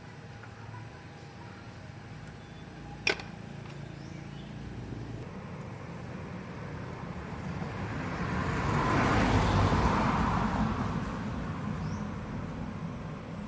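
A single sharp click, then a vehicle passing by: a noisy rush that swells for a few seconds and fades away again.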